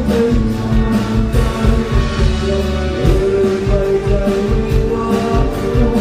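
Live band playing a song, with held chords and a steady drum beat.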